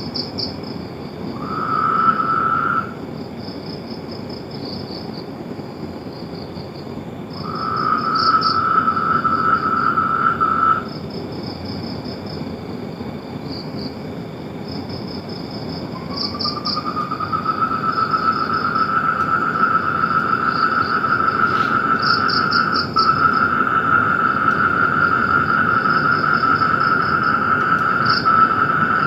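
Frogs calling in pulsed trills, with a higher, faster trill, like insects, repeating throughout. The lower trill comes in briefly about a second in, again for a few seconds around the eight-second mark, and then runs without a break from about halfway through.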